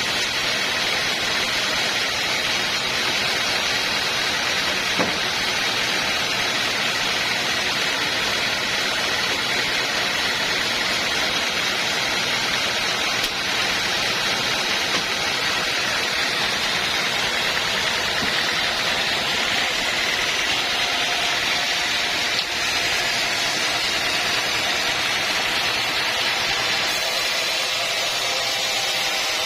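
Machinery running steadily: a continuous, even mechanical hiss and drone with no pauses.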